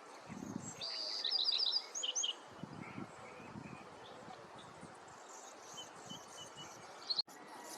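Bewick's wren singing: a short phrase of quick, evenly repeated slurred notes about a second in, ending in a couple of rising whistles, with fainter chirps later. A few soft low thumps sound underneath.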